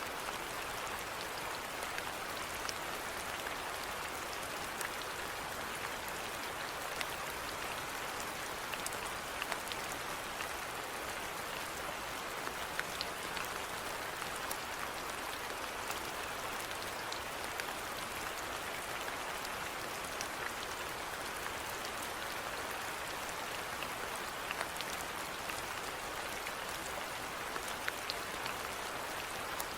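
Steady rain falling, a continuous hiss with many small droplet ticks scattered through it.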